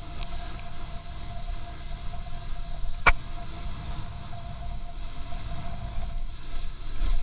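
Car driving in second gear: a steady low engine and road rumble with a faint steady whine over it, and a single sharp knock about three seconds in.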